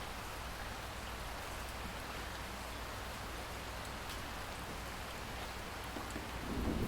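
Steady rainstorm: an even hiss of rain with scattered drop ticks. Near the end a low rumble of thunder starts to build.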